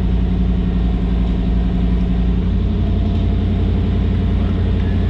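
1991 Pontiac Firebird's 305 TBI V8 idling steadily.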